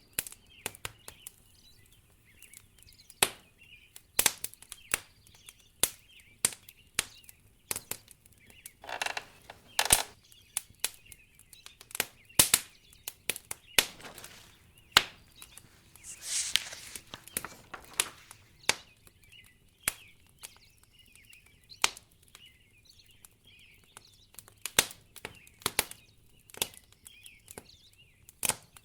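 Wood fire crackling in a fireplace: irregular sharp pops and snaps, a few a second and of varying loudness. There is a brief hissing swell about nine seconds in and a longer one around sixteen seconds.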